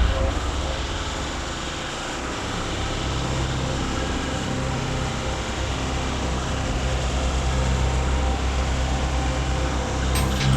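Vermeer SC 382 stump grinder's engine running steadily, growing a little louder about three seconds in.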